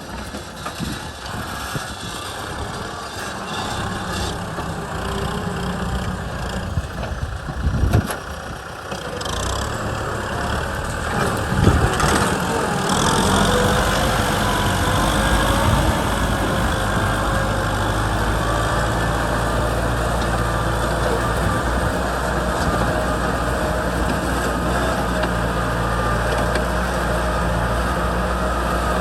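Kubota M6040 tractor's diesel engine running, with a sharp knock about eight seconds in and another about twelve seconds in, after which the engine runs louder and steadily.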